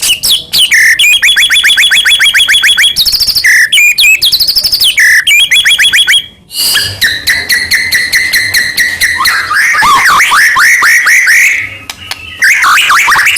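White-rumped shama (murai batu) singing in loud, rapid phrases of repeated whistled notes, trills and falling sweeps. The song breaks off briefly about six seconds in and again near the end.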